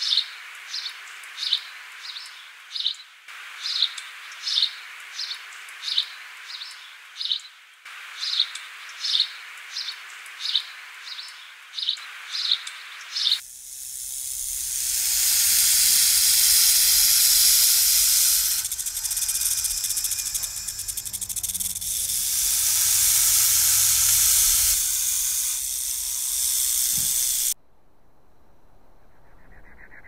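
A feather-tailed treeshrew chirps: short, high chirps about twice a second. About 13 seconds in, a sand snake starts hissing, loud and long with slight dips, and stops sharply about 27 seconds in.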